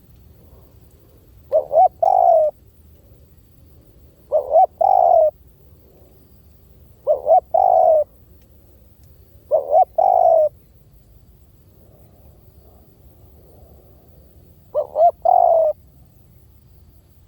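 Spotted dove calling, a recorded decoy call for luring doves: five phrases, each two short coos followed by a longer coo that rises then falls, repeated about every two and a half seconds, with a longer pause before the last.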